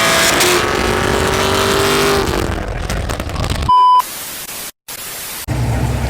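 A car engine accelerating, its pitch climbing and then holding steady before fading about two and a half seconds in. A short, loud electronic beep follows, then a stretch of hiss with a brief dropout, and a low steady engine drone from about five and a half seconds.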